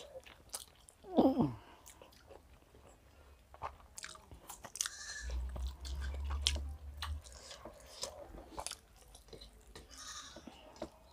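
Close-up eating sounds of chicken biryani eaten by hand: chewing, wet mouth clicks and fingers working rice and chicken on plates, with many scattered small clicks. About a second in comes a short, louder sound falling in pitch, and a low hum runs for about two seconds in the middle.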